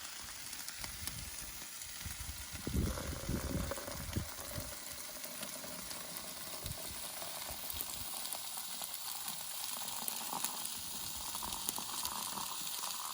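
Steady sizzling hiss with fine crackles, growing slightly louder, of food frying on a camp gas stove, with a few dull knocks about three seconds in.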